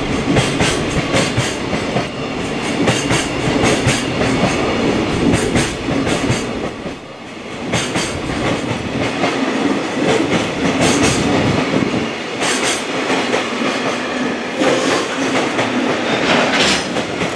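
Freight train of container wagons rolling past close by, the wheels clattering steadily over the rail joints.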